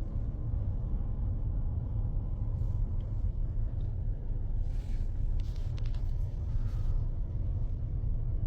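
Steady low rumble of a vehicle driving, with a few faint knocks about five seconds in.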